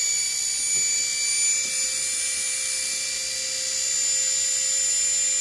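Washing machine motor running on a 24-volt DC supply, wired for high speed at around 3,000 RPM, with a steady high-pitched whine.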